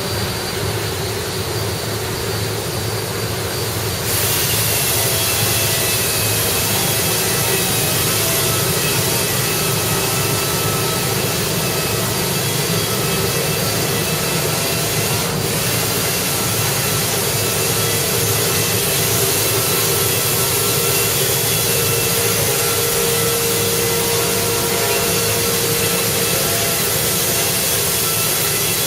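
A power tool running steadily, with a high whine over a rushing noise, getting louder about four seconds in.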